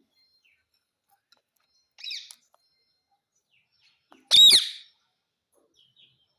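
Pet Indian ring-necked parakeet calling twice: a short, softer call about two seconds in, then a loud call with a falling pitch about four and a half seconds in.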